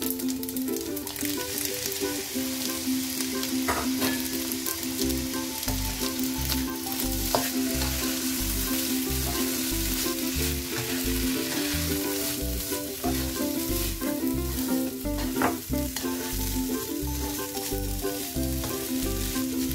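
Fried rice with cabbage and petai sizzling in a non-stick wok as a spatula stirs and tosses it, with short scrapes of the spatula against the pan. Background music with a steady beat runs underneath, its beat coming in about five seconds in.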